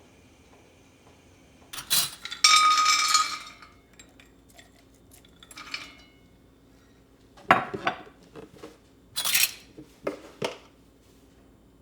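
Dishes and cutlery being handled: a ringing clatter of metal or glass about two seconds in, then several separate knocks and clinks.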